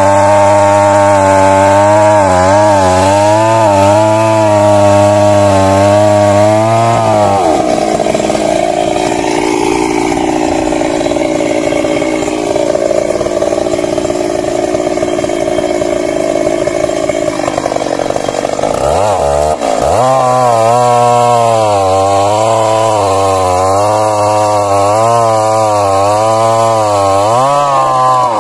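Stihl MS 382 two-stroke chainsaw running at full throttle while cutting, its pitch wavering as it labours under load. About seven seconds in the engine note rises and runs higher for around ten seconds, then drops back to the wavering, loaded note.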